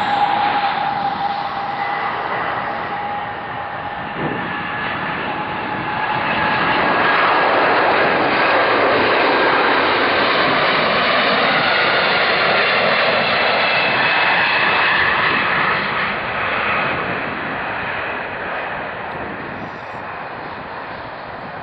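Boeing 747-200 freighter's four jet engines on its landing run, a loud engine noise with a whine of several tones slowly falling in pitch. It swells to its loudest a few seconds in as the jet passes, then fades off near the end.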